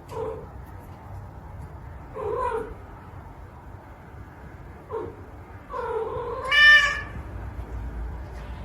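A cat meowing several times in short calls. The loudest and longest meow comes about two-thirds of the way through and rises higher in pitch.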